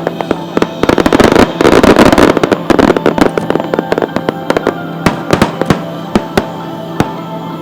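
Aerial fireworks bursting and crackling in a dense, rapid volley about one to three seconds in, then thinning to scattered single cracks, over steady background music.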